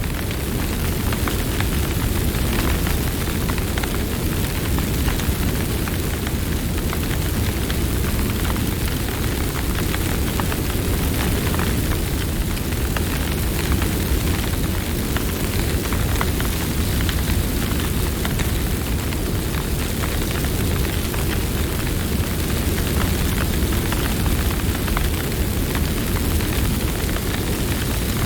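Campfire burning steadily: a constant low rush of flames with frequent small crackles and pops of burning wood.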